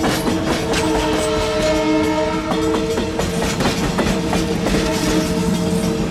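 Train horn sounding a long chord of several notes as a train passes, over the steady clatter of wheels on rail joints.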